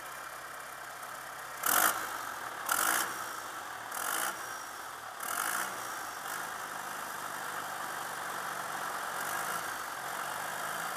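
3.9L 4BT Cummins four-cylinder diesel idling steadily, with four short, loud bursts in the first half.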